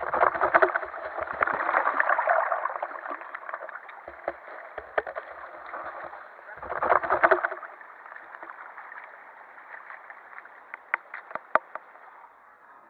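River water gurgling and splashing close to the microphone, with louder surges in the first few seconds and again about seven seconds in, and scattered sharp clicks.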